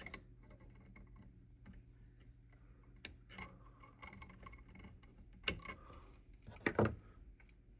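Small scattered clicks and ticks of capacitor wire leads being twisted together by hand, with two louder clicks in the second half, over a steady low hum.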